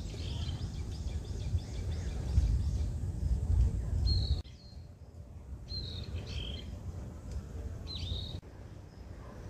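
Small birds chirping, short high calls repeated every second or so, over a low rumble that stops abruptly about four seconds in.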